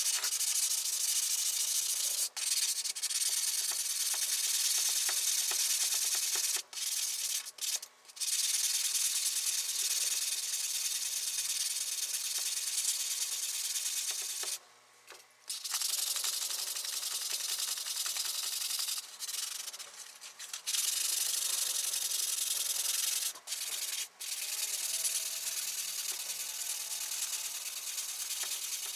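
Abrasive sanding: steady, hissing rubbing, broken by several short pauses and a longer one about halfway through.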